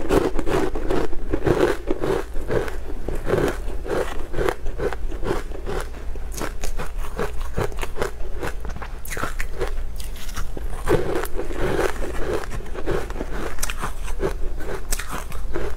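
Close-miked chewing of crunchy sweet cake pieces topped with green powder: a steady chewing rhythm of about two chews a second, with many small crunches and crackles.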